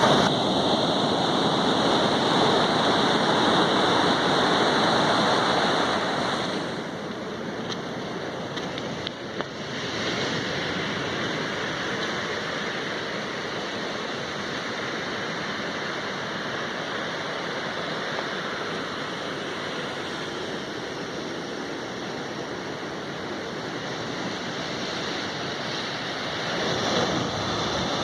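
Ocean surf breaking on a beach: a loud wash of breaking water for the first six or so seconds, settling to a steadier, lower rush, and swelling again near the end as the next wave comes in.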